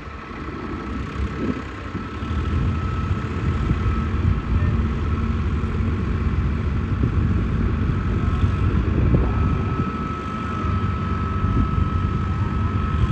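Tractor engine running steadily, growing louder over the first two seconds, with a steady high whine over the rumble.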